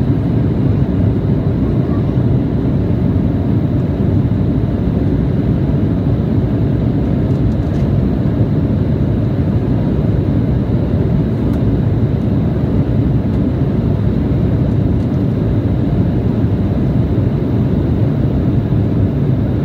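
Steady low rumble of airliner cabin noise inside an Embraer E175 in flight: engines and airflow, unchanging throughout.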